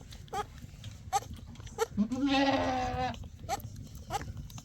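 A sheep bleating once, one long call of about a second, about two seconds in, with scattered short clicks around it.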